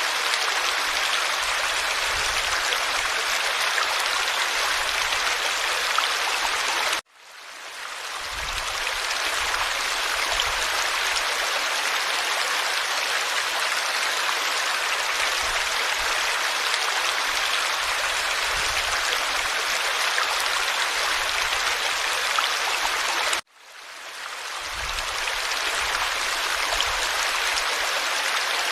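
Stream water flowing and babbling in a steady rush. About seven seconds in, and again later, the sound cuts out abruptly and fades back in over a second or two.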